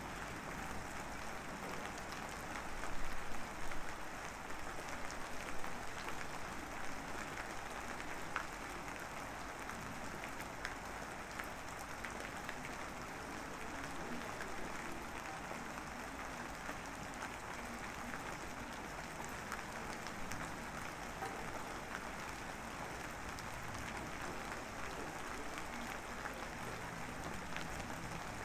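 Steady rain falling, an even patter with scattered louder drop ticks.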